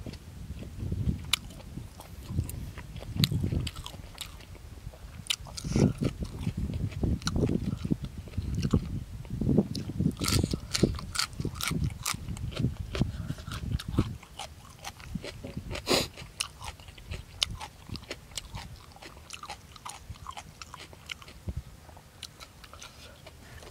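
Close-up chewing and wet mouth smacks of a man eating slices of boiled buffalo offal with his fingers, with many sharp clicks. The chewing is heaviest for the first two-thirds and quieter after about 14 seconds.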